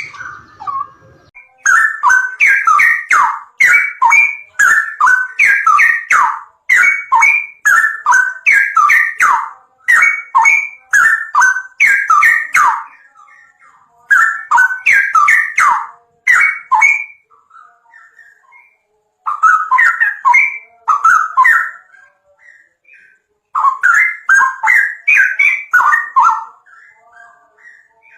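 A songbird singing close to the microphone: loud, rapid chirping phrases in runs lasting several seconds, broken by short pauses with a few scattered notes.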